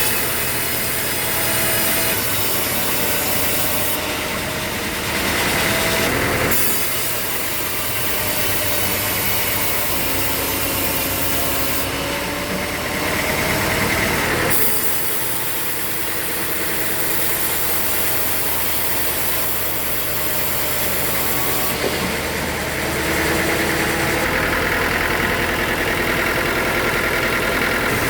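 Sawmill machinery running: a steady engine with a saw cutting wood. The sound changes abruptly several times.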